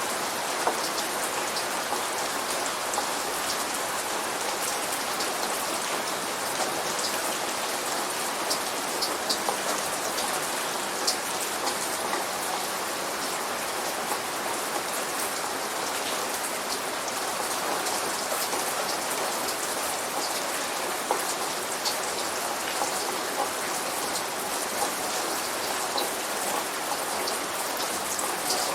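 Steady light rain falling, a dense even hiss with many separate drops ticking on a surface; no thunder is heard.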